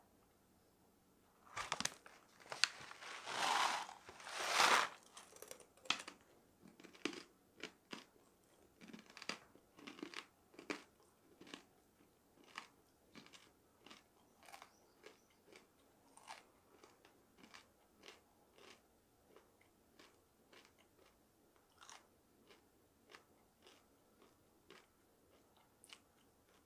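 Chewing of crunchy dried shiitake mushroom. A few loud crunching bites come about two seconds in, then steady slower crunching chews, roughly one or two a second, gradually fainter.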